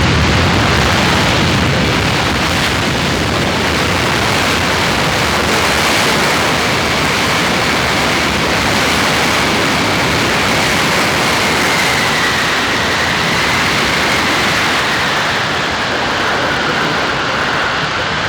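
Boeing C-17 Globemaster III's four turbofan jet engines running loud during a short-field landing: a steady rushing noise with a faint whine that slowly falls in pitch over the second half.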